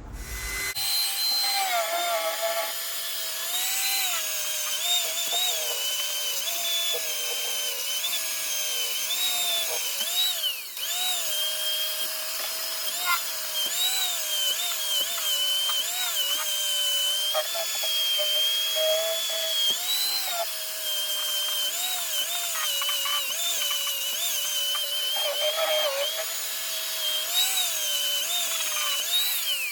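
Electric power-tool motor running continuously, a whine whose pitch wavers up and down about once a second as the load on it changes.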